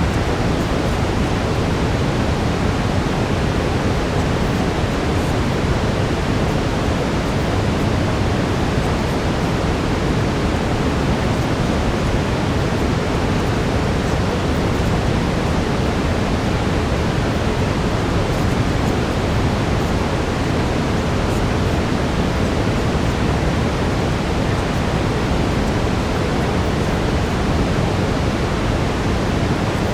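Steady brown noise: an even, unchanging low rushing hiss.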